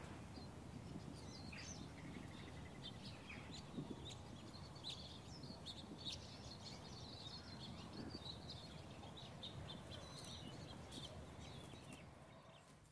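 Faint outdoor ambience of small songbirds chirping and twittering, with a short rapid trill about two seconds in, over a low background rumble. It fades out near the end.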